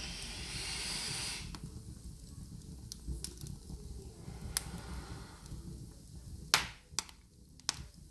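A hiss lasting about a second and a half, then a handful of sharp, irregular pops, the loudest about six and a half seconds in: popcorn kernels starting to pop in a pan over a fireplace fire.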